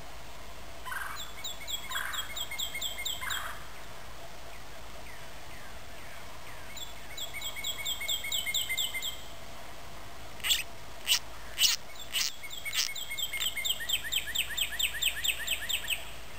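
Wild bird singing: three bouts of quick, high, repeated slurred notes, with a few loud, sharp calls in between about two-thirds of the way in.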